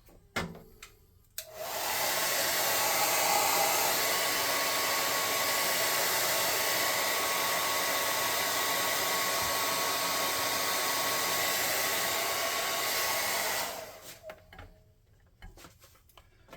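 Hot air gun (heat gun) running steadily, blowing to dry fresh paint on a miniature. It switches on sharply about a second and a half in, runs as an even blowing noise with a faint steady whine, and winds down near the end.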